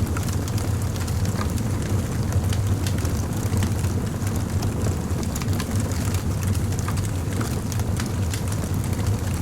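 Fire crackling: many small, irregular crackles and pops over a steady low rumble.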